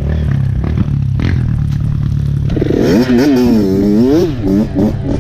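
Dirt bike engine running low and steady, then revved several times from about halfway in, its pitch rising and falling repeatedly, with a single knock about a second in.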